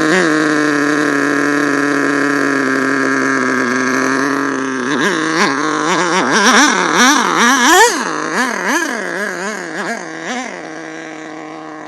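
Small two-stroke nitro glow engine of an RC monster truck running at a steady fast idle, then revved in a series of quick throttle blips about halfway through, before dropping back to idle near the end.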